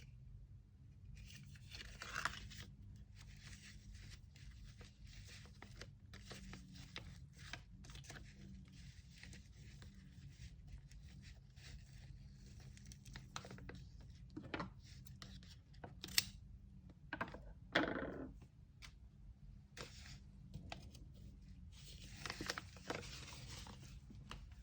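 Paper and tape being handled by hand while packing an order: intermittent rustling, crinkling and tearing with scattered light taps and clicks, over a low steady hum.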